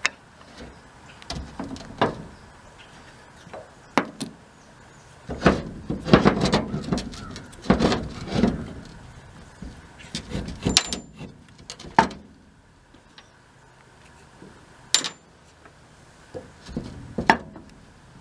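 Metal parts of a Blackmer TDX2D vane pump being worked apart by hand: scattered sharp knocks and clicks, with a denser run of clunking and scraping about six to eight seconds in, as the stuck vanes are worked loose.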